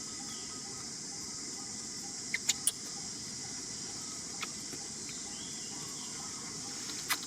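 Steady, high-pitched drone of insects over a low rumbling background, with three sharp clicks about two and a half seconds in and another near the end.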